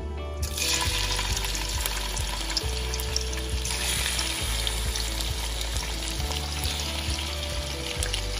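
Raw prawns sizzling in hot oil in a kadai, the hiss of frying starting suddenly about half a second in as they go into the oil and then running on steadily. Background music plays underneath.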